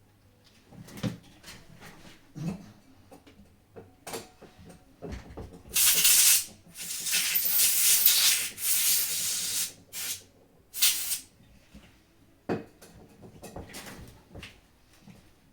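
Small clicks and knocks from handling the controller's plastic parts, with a few seconds of loud rubbing or hissing in the middle.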